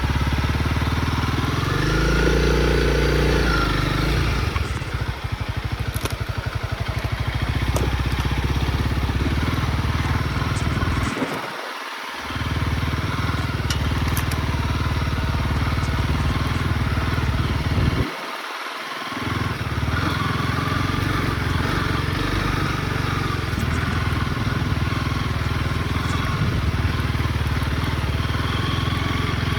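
Honda CRF motorcycle engine running steadily while riding. Its low rumble cuts out briefly twice, about a third and about two-thirds of the way through.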